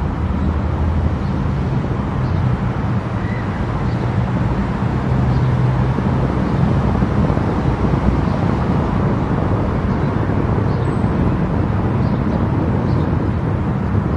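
Car driving at highway speed: a steady low drone of engine and tyres on the road, with even road noise.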